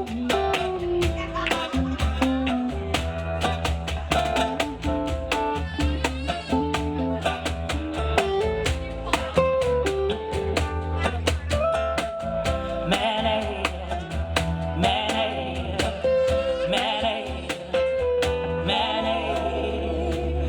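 Live acoustic band playing an instrumental break: strummed guitar, bass and percussion under a lead melody line of held and bending notes, which wavers more from about halfway through.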